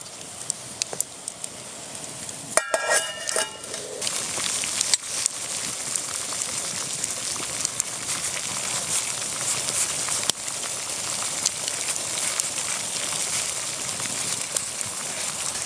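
Wood campfire crackling with sharp pops. From about four seconds in, a denser steady sizzling hiss sets in and grows louder. A brief squeal comes just before three seconds in.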